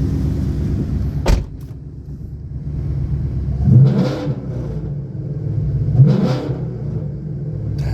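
Mustang engine running through a stainless axle-back exhaust. A sharp knock a little over a second in, after which it is quieter, then two short revs, about four and six seconds in.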